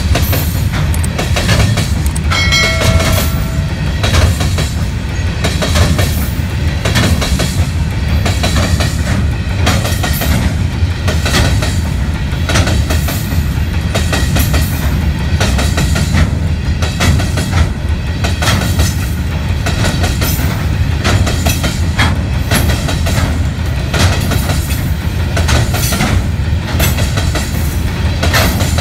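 Freight train of steel hopper wagons rolling past close by: a steady heavy rumble with continuous wheel clatter over the rail joints. A brief tone sounds about three seconds in.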